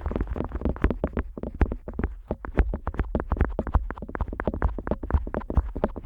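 An otoscope tip rubbing and tapping on the silicone outer ear of a Neumann KU100 dummy-head microphone, heard right at the mic's ear as a fast, uneven run of scratchy clicks and knocks, about eight to ten a second.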